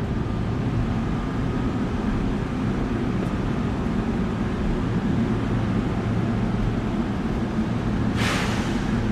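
Five-car Amtrak train running beside the platform: a steady low rumble and hum, with a short burst of hiss about eight seconds in.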